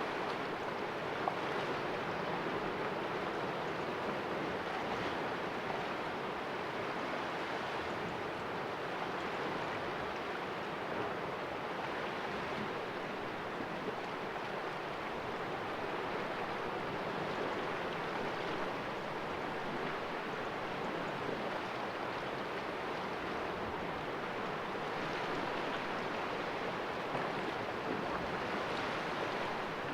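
Sea waves splashing against rocks in a small cove, a steady wash that swells and eases slightly.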